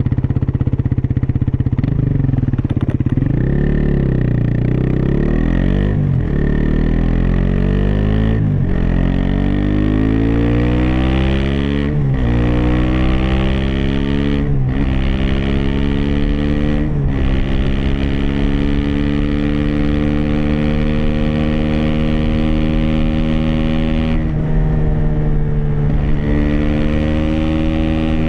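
Aprilia SX 125's single-cylinder 125 cc four-stroke engine through an Arrow Thunder slip-on with dB-killer and Arrow racing header, accelerating up through the gears. The engine note rises repeatedly and dips briefly at each upshift, then settles to steadier running in the second half.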